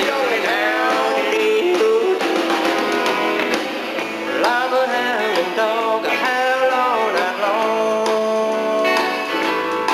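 Country-rock band playing live: guitars, bass and drums, with melody lines that slide up and down in pitch over a steady beat.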